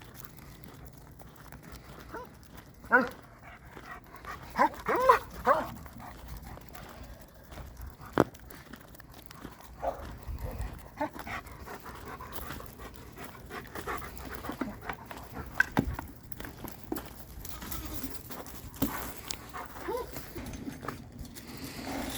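Animal calls: one short call about three seconds in and a quick run of several calls around five seconds, with scattered knocks and thumps between.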